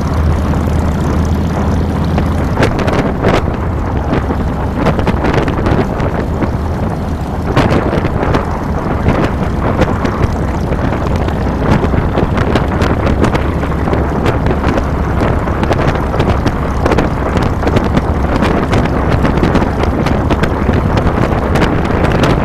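2007 Harley-Davidson Fat Boy's V-twin engine running steadily under way, heard with wind buffeting the handlebar-mounted microphone.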